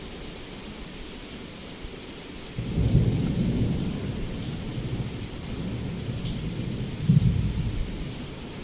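Heavy rain falling steadily, with a low rumble of thunder that swells about two and a half seconds in and slowly fades, then a second, shorter rumble near the end.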